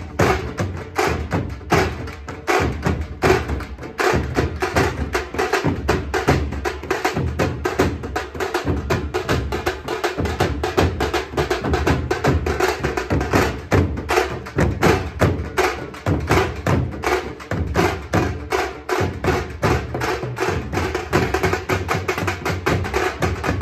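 Tasha drums played by a troupe in a fast, dense, driving rhythm of rapid stick strokes, with deep drum beats underneath.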